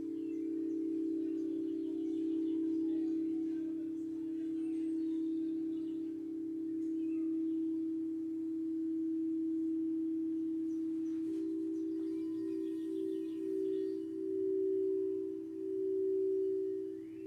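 Singing bowl sounding a sustained, steady low ring. About two-thirds of the way through, the ring starts to pulse in slow swells. Faint bird chirps can be heard above it.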